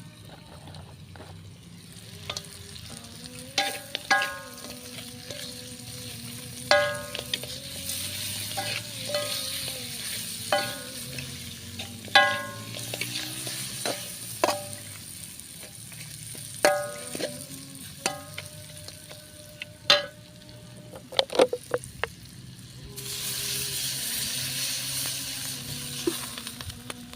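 Sparrow meat frying in a pan with a steady sizzle, while a metal spatula stirs it and strikes the pan with sharp, ringing clinks every second or two. The sizzle grows louder for a few seconds near the end.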